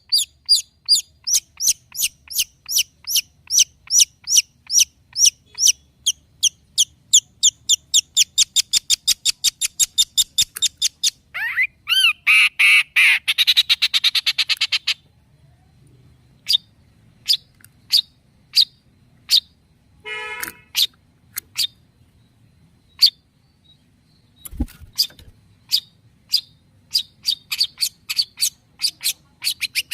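Long-tailed shrike (cendet) singing: a fast run of sharp, repeated high notes, about three to four a second, that breaks midway into a few seconds of harsh, rapid chattering. Then come spaced single notes and a short buzzy call before the quick notes build up again. A low thump sounds about two thirds of the way in.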